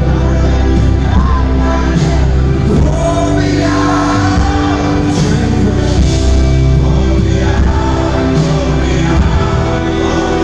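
Live pop-rock band playing a ballad with sung vocals over it, heard from the audience in a large concert hall.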